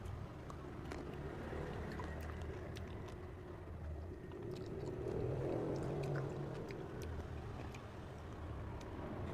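A steady low background rumble with faint scattered clicks; it swells a little about five seconds in.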